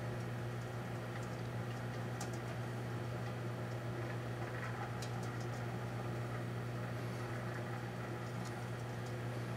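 Proctor-Silex microwave oven running, with a steady low hum and a few faint ticks, while heating a toilet-bowl cleaner tablet.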